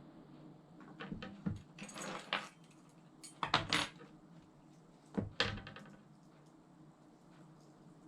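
Small metal parts of a baitcasting reel clinking and rattling as they are handled, in three short bursts of clicks over a steady low hum.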